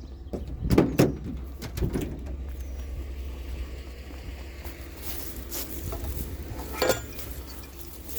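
Car engine idling steadily, with a few sharp knocks and clunks about a second in and again near the end.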